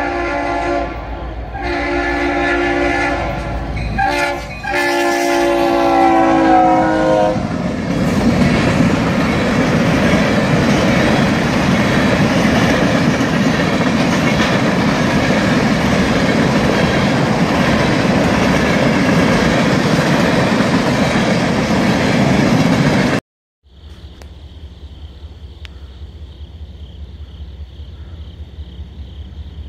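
Locomotive multi-tone air horn sounding the grade-crossing pattern, long, long, short, long, as the train reaches the crossing. The train then passes close by with a loud steady rumble and clatter of wheels on rail for about fifteen seconds, before the sound cuts off abruptly and gives way to a much quieter steady high trill.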